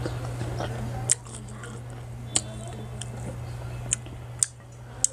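Close-up chewing of crisp, unripe green carabao mango with the mouth closed, with about five sharp clicks scattered through, the loudest about a second in.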